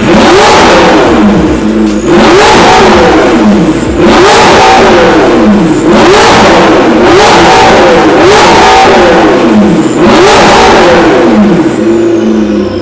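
McLaren 650S twin-turbo V8 revving hard again and again through an Armytrix titanium exhaust, pitch climbing and falling back about every second.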